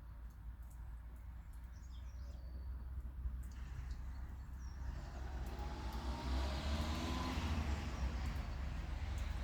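A motor vehicle approaching, its engine and tyre noise growing steadily louder through the second half. A few bird chirps early on, over a steady low rumble.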